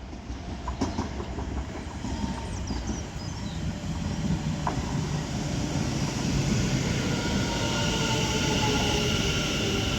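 Doubled-up West Midlands Railway Class 730 electric multiple units approaching on the rails, the running noise growing steadily louder. From about halfway through, a whine of several steady tones comes in, some falling slightly in pitch as the train slows.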